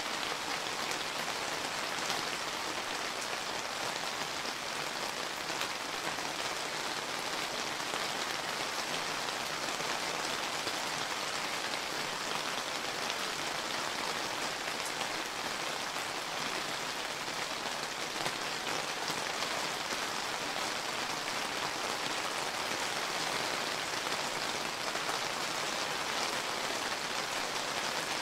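Steady summer rain falling and pattering on surfaces, a dense even hiss of many drops with no lulls.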